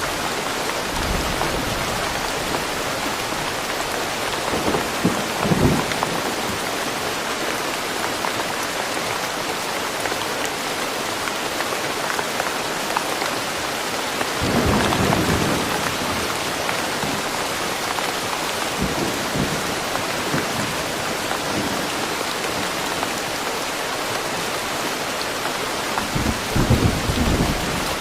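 Steady rain falling in woodland, with low rumbles of thunder about five seconds in, around the middle, and near the end.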